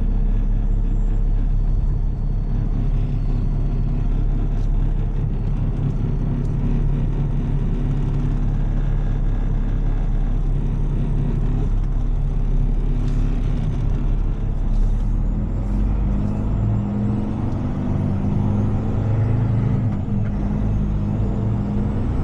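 Heavy tow truck's diesel engine running steadily while driving, its note growing stronger and shifting about two-thirds of the way through as the truck works through a turn.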